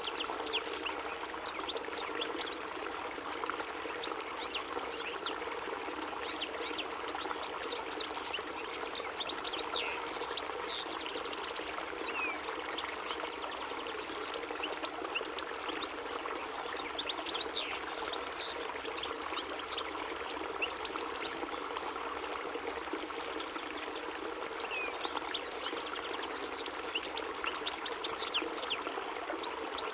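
European goldfinch (chardonneret) singing: a continuous fast twitter of short, high, liquid notes that grows busier near the end, over a steady rushing hiss like running water.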